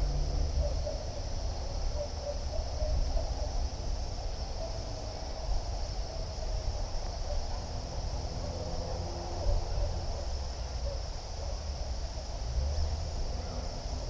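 A steady, unbroken high trilling of insects such as crickets, over a low rumble, with scattered short chirps in a lower range.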